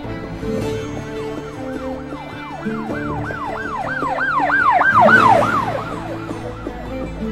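A yelping emergency-vehicle siren sweeps up and down several times a second. It grows louder and higher to a peak about five seconds in, then drops in pitch and fades as it passes, over background music with sustained chords.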